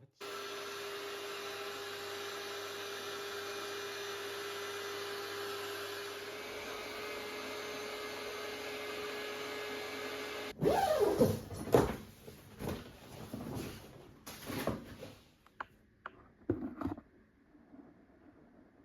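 A small electric motor runs steadily with a fixed hum for about ten seconds and then stops abruptly. A series of irregular knocks and clatters follows.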